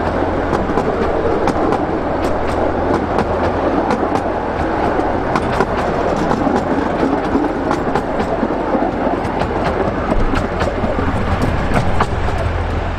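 Narrow-gauge passenger coaches rolling past at low speed, a steady rumble with frequent irregular clicks as the wheels pass over the rail joints.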